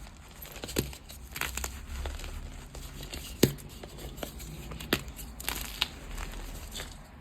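Gym chalk being crushed and crumbled by hand: a run of dry, crunchy crackling broken by sharp snaps, the loudest about three and a half seconds in.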